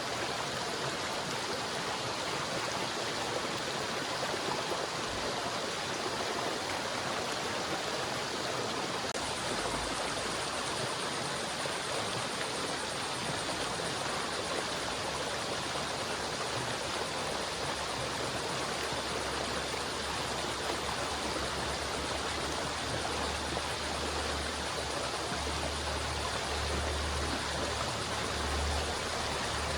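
River water flowing steadily in a continuous rushing hiss, with a deep low rumble growing stronger through the second half.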